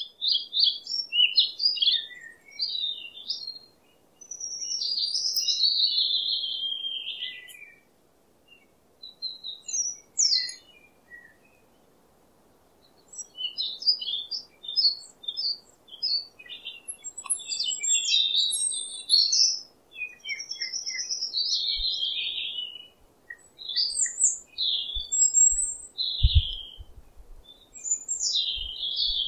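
Small birds chirping and singing in a busy run of short chirps and trilled phrases, over a faint steady hiss. A few short low knocks come near the end.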